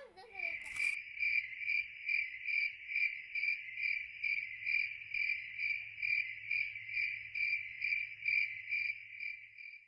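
Cricket chirping: a steady, even trill of high chirps repeating about two and a half times a second, with a single click about a second in.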